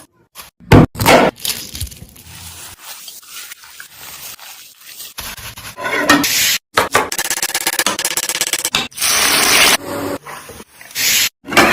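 Cooking sounds cut together in short clips: a utensil scraping and stirring in a pot in quick strokes, with bursts of even hiss. Each clip stops abruptly.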